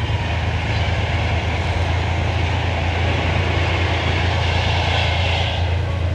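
Narrowboat's diesel engine running steadily with a deep, even throb, with a hiss of rushing noise over it.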